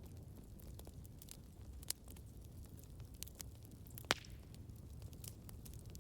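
Wood fire burning with a low steady rumble and scattered sharp crackles and pops, the loudest pop about four seconds in.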